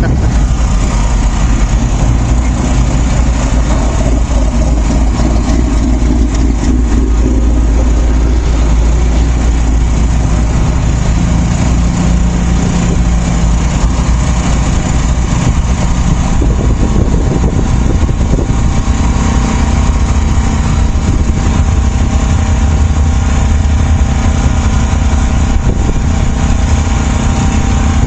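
Car engine running steadily, its pitch shifting a little now and then, with a strong low rumble.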